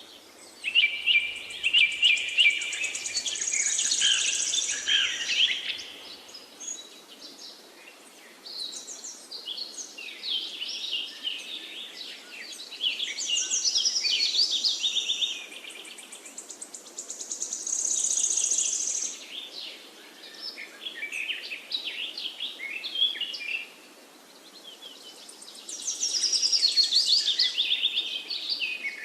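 Songbirds singing: phrases of fast, high chirps and trills a few seconds long, with short pauses between them.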